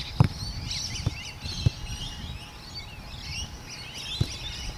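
Small birds chirping and twittering all through, with four dull thumps, the loudest just after the start and others at about one, one and a half and four seconds in.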